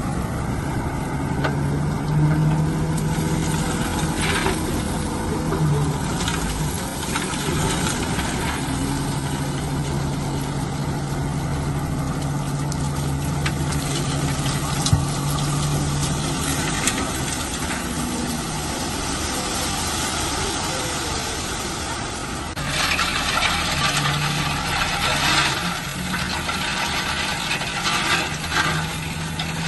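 Diesel engine of a heavy road-construction machine running steadily, with occasional sharp clanks and a stretch of harsher, hissing noise starting about two-thirds of the way in.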